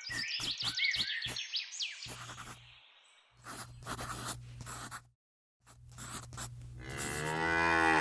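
Cows mooing: low drawn-out moos, the last one longer and rising, the loudest near the end. Bird chirps and a few clicks come in the first two seconds.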